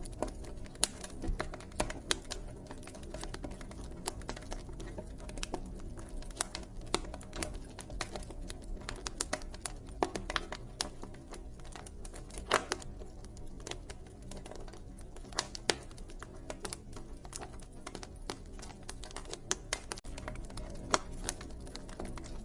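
Wood fire crackling: irregular sharp snaps and ember pops, a few clearly louder than the rest, over a steady low rumble.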